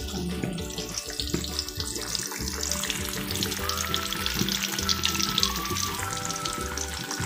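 Tempeh slices deep-frying in hot oil in a wok: a steady crackling sizzle that grows thicker and louder about a third of the way in.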